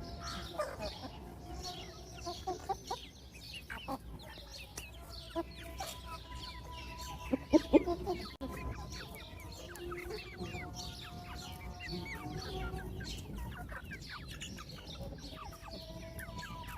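Hens clucking while chicks peep continuously in short, high, falling chirps, with a few loud clucks about seven to eight seconds in.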